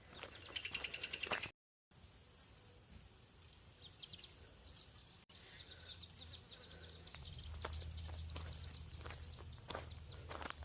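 A songbird singing a quick series of high, repeated chirps, with footsteps on the trail joining in about halfway through.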